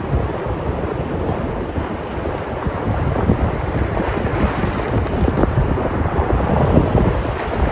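Sea surf washing in and breaking on the shore in a continuous rush, swelling a little in the middle. Wind buffets the microphone with a low rumble underneath.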